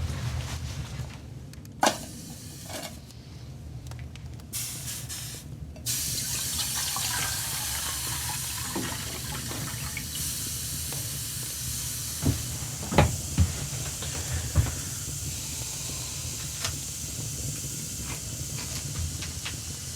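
Food sizzling on an old iron wood stove: a steady hiss sets in about six seconds in and holds, with a few sharp knocks around the middle.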